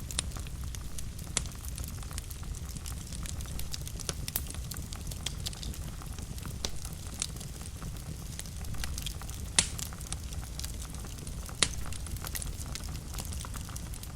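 Wood fire burning in a fireplace: a steady low rumble of flame with frequent small crackles and a few louder pops, the sharpest about halfway through and again a couple of seconds later.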